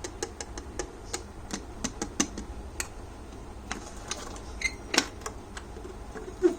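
Irregular sharp clicks and taps, a few a second, with a louder knock about five seconds in.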